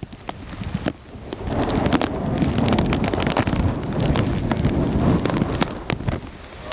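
Hurricane wind buffeting the microphone over heavy rain, with raindrops ticking close by. A strong gust builds about a second and a half in and holds, then eases near the end.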